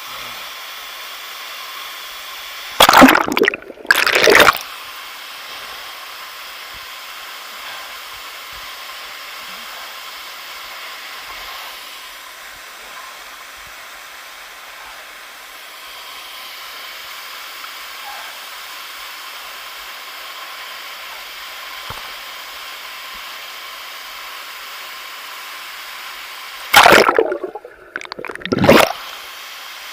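Steady rush of a waterfall, broken twice by a pair of loud, brief rushing blasts, once a few seconds in and again near the end.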